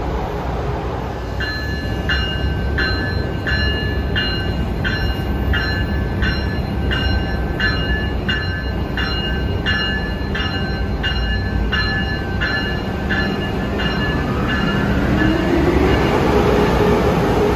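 A train's warning bell rings steadily, about one and a half strikes a second, over the rumble of a train. The bell stops near the end and a rising whine takes over as the train picks up speed.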